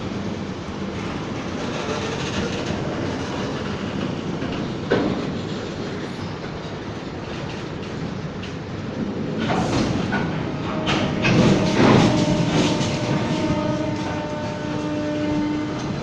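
Goods train wagons rolling slowly past, the wheels clattering and knocking over the rail joints. A steady whine joins in for a few seconds near the end.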